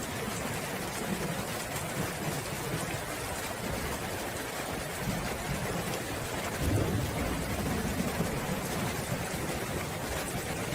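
Steady heavy rain falling, with a low rumble of distant thunder swelling about two-thirds of the way through.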